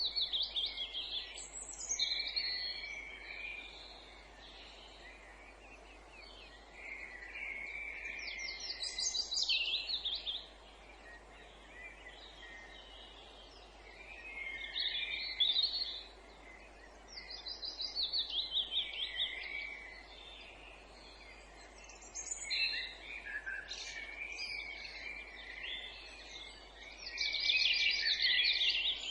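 Songbirds singing in phrases of rapid repeated high notes. Each phrase lasts two to three seconds, with pauses of a few seconds between, about six phrases in all. A faint steady hiss of background noise runs underneath.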